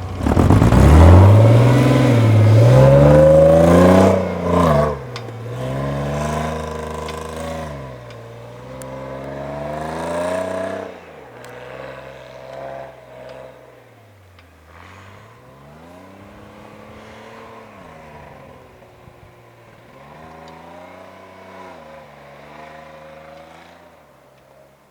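Off-road vehicle engine revving up and down over and over as it drives off through snow. It is loud for the first few seconds, then grows fainter as it moves away.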